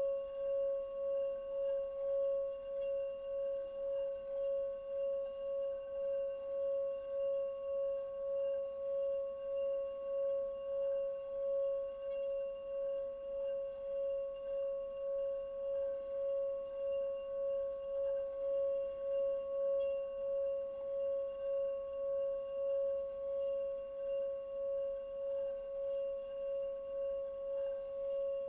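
Singing bowl sounding one sustained, steady tone with fainter higher overtones, its loudness pulsing gently about twice a second.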